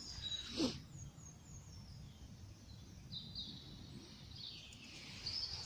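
Faint birdsong: a run of short, high chirps in the first second or so, then a few more scattered chirps later, over a low rumble of wind or handling noise. There is a brief rustle about half a second in.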